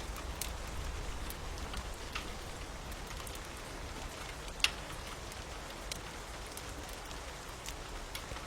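Steady rain hiss mixed with the sparse crackle of a fire: scattered sharp pops, with one louder pop about four and a half seconds in.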